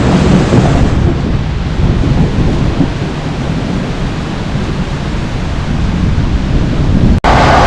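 Thunder rumbling through heavy rain, easing off and then building again. About seven seconds in the sound cuts out for an instant and comes back louder, with more hiss from the rain.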